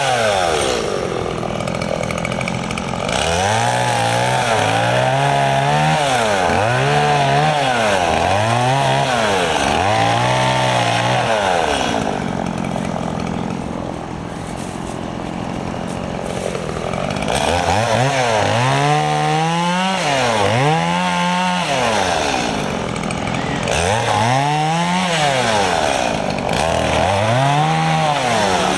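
Stihl MS 170 two-stroke chainsaw revving up and down about once a second as it cuts up a pile of branches. It drops to lower, steadier revs for a few seconds in the middle, then goes back to repeated bursts.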